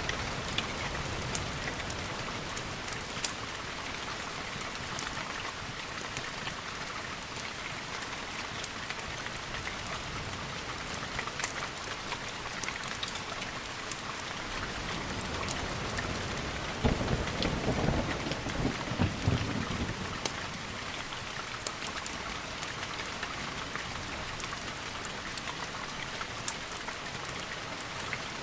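Steady rain falling with scattered sharp ticks throughout, and a low rumble of distant thunder swelling about two-thirds of the way through.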